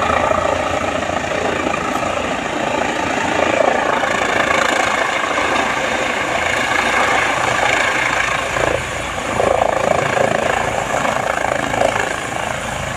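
Helicopter running with a steady, loud engine and rotor noise.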